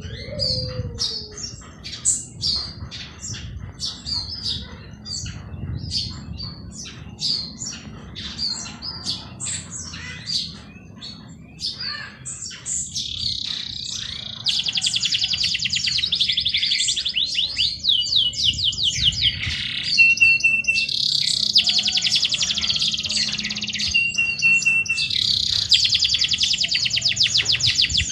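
Songbirds calling in many short, high chirps. About halfway through, a bird begins singing long, fast trilled phrases of a few seconds each, broken by brief steady whistles.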